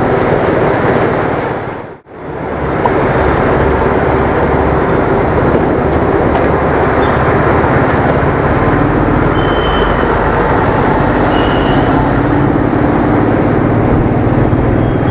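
Royal Enfield Thunderbird's single-cylinder engine running under way, with heavy wind and road noise on an action camera, steady apart from a brief break about two seconds in.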